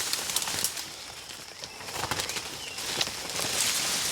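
Footsteps and rustling through dense scrub and leaf litter: an uneven run of crunches and swishes of leaves and stems.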